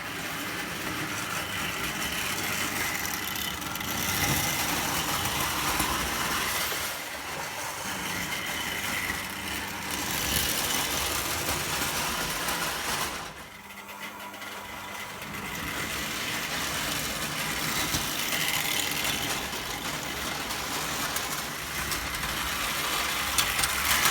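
O gauge Lionel toy train running on tinplate track: a steady mechanical rumble of its electric motor and wheels that grows louder and quieter as it goes, dropping briefly about halfway through.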